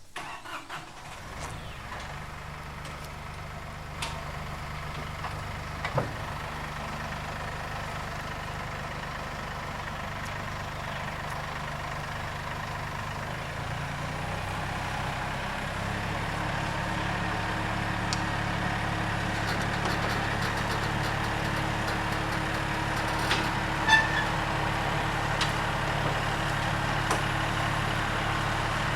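Massey Ferguson 1835E compact tractor's diesel engine running steadily. It grows gradually louder, and its note changes about halfway through. A few sharp clicks or knocks sound over it, the loudest about 24 seconds in.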